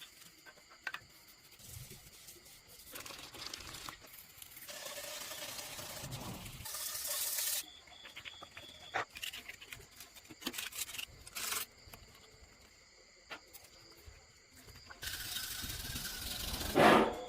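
Intermittent scraping and rubbing in several stretches, with scattered clicks and knocks between them.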